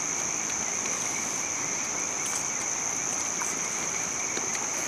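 A steady, shrill chorus of night insects, a continuous high trill with a weaker lower drone, over an even hiss and a few faint scattered clicks.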